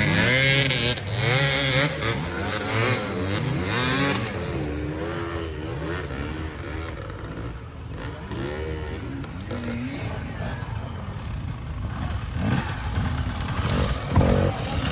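Off-road motorcycle engines revving up and down as bikes ride the motocross track, loudest in the first few seconds, fading in the middle and growing again near the end.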